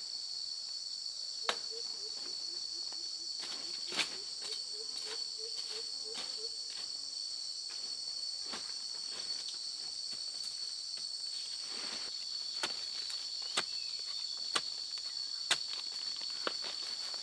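Steady high-pitched insect chorus, with scattered sharp clicks and snaps throughout. From about a second and a half in until about six and a half seconds, there is also a run of short, low pitched notes, about three a second.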